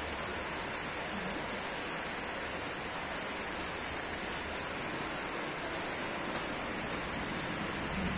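Rain falling in a steady hiss.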